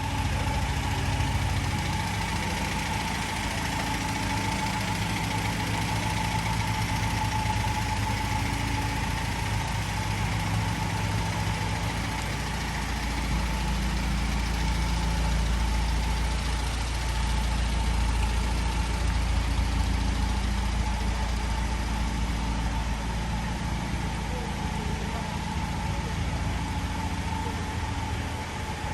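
Morris A60 SunTor camper's four-cylinder engine idling steadily.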